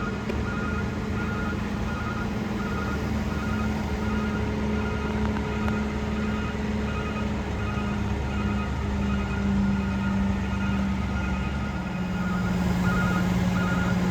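Heavy trucks' diesel engines idling in a steady drone, with a high beep repeating evenly over it. The low rumble drops away and the engine note steadies about twelve seconds in.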